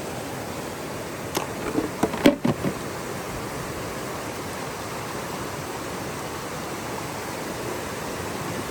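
Creek water running steadily, with a few sharp knocks and clicks about two seconds in.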